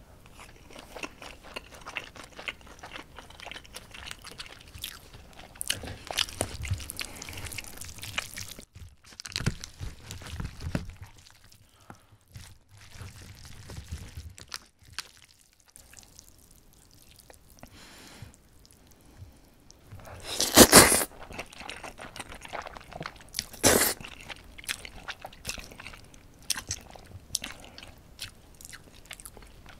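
Close-miked chewing and biting of braised pig's trotters and noodles: many small wet mouth clicks and crunches. Two louder sudden noises come about two-thirds of the way through.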